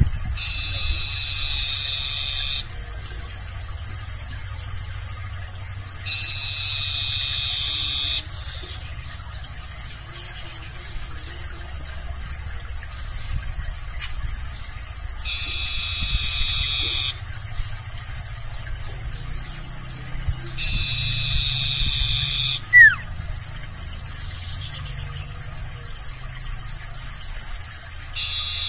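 Barn owl giving long, harsh screeches, four in all, each about two seconds long with irregular gaps between, over a steady low rumble. A brief, sharp falling squeak cuts in once near the end.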